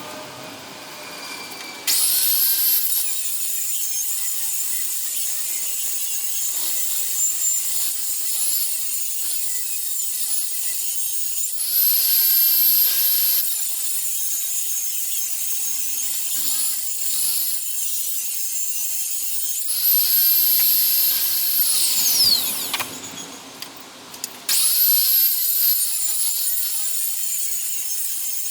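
Electric power tool, sanding or cutting, run in several long bursts. A high whine rises each time it spins up, and it winds down and starts again near the end.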